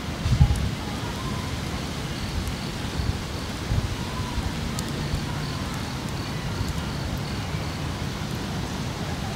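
Wind buffeting the microphone outdoors: a steady low rumble with gusty swells, loudest as a brief thump near the start.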